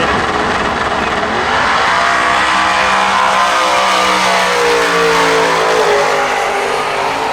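Drag race car at full throttle, starting abruptly and pulling hard, its engine note slowly falling in pitch.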